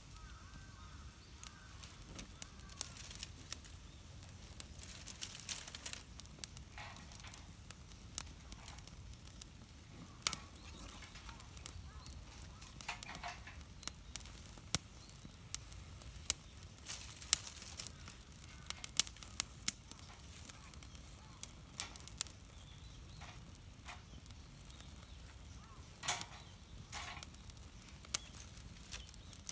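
Wood campfire crackling, with frequent irregular sharp pops and snaps over a low, steady hiss.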